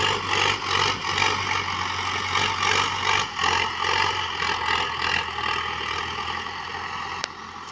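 Preet 6049 tractor's diesel engine running steadily. A sharp click comes about seven seconds in, and the sound is quieter after it.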